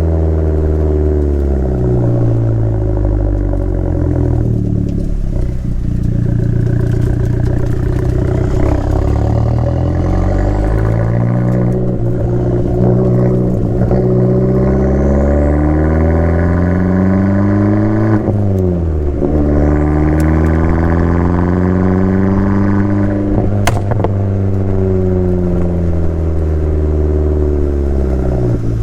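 Abarth 500's turbocharged 1.4-litre four-cylinder through an El Gato exhaust with a 200-cell high-flow cat, driven hard: the engine note rises under acceleration and drops back at each gear change, then falls away near the end. There is one sharp crack about two-thirds of the way through.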